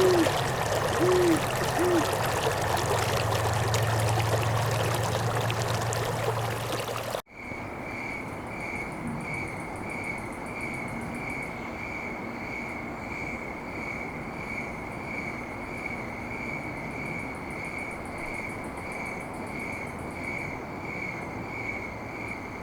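Rushing river water, with three short hoots in the first two seconds. About seven seconds in, the sound cuts to a steady chirping at about two chirps a second, which goes on to the end.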